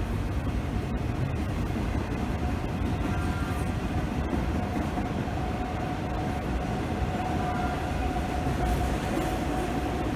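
A train running past: a steady rumble of wheels on rail, with a faint steady whine coming in a few seconds in.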